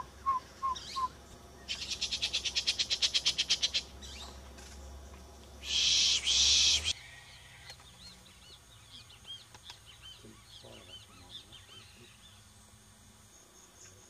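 Wild birds calling: four short hooting notes in the first second, then a fast rattling trill of about seven pulses a second lasting two seconds. A loud harsh burst about a second long follows near the middle, then faint high chirps.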